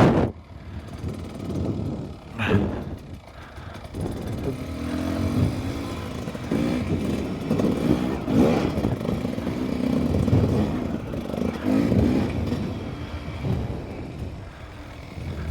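Beta dirt bike engine revving up and down while riding a dirt track, with repeated surges in pitch as the throttle opens and closes.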